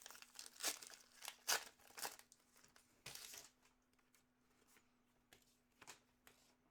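Trading cards being handled, a run of short papery swishes and rustles as cards slide past one another, over a faint steady hum.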